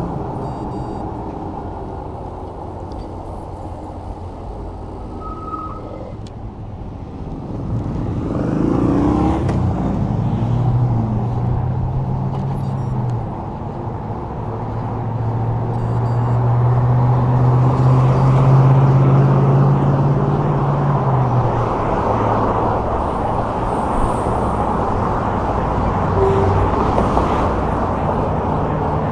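Wind and road noise from riding an e-bike along a city street, with the low hum of motor traffic passing close by, loudest about two-thirds of the way through.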